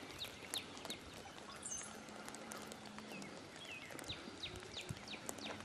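Faint background of scattered short, high bird chirps, with a faint low hum for about a second midway.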